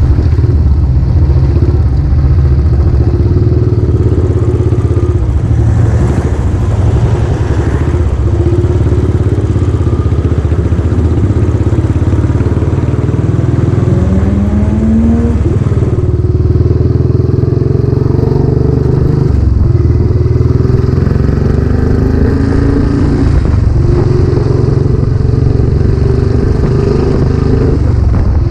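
Royal Enfield Classic 500's single-cylinder engine running under way through its new silencer. The engine note rises in short stretches and dips briefly a few times, as when the rider accelerates and changes gear.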